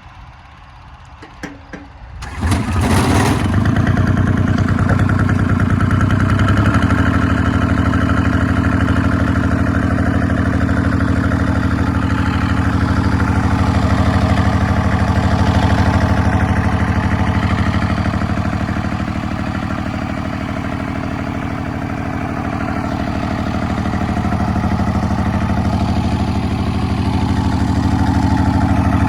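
Straight-piped 1984 John Deere 430's three-cylinder Yanmar diesel engine, open stack exhaust with no muffler. It starts about two seconds in after a few clicks, then runs steadily and loudly.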